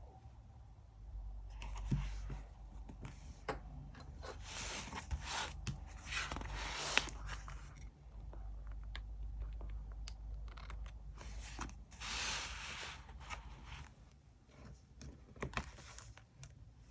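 Paper and stationery being handled: rustling and scraping of paper with scattered small clicks and taps, busiest in two stretches.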